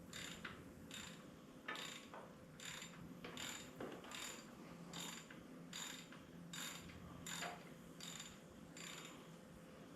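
Hand ratchet wrench clicking in regular back-and-forth strokes, about one stroke every second, loosening the battery cable terminal on a Ford 8N tractor.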